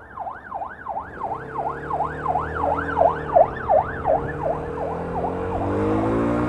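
Emergency vehicle siren in a fast yelp, its pitch sweeping up and down about three times a second and fading away near the end. An engine idles underneath and revs up near the end.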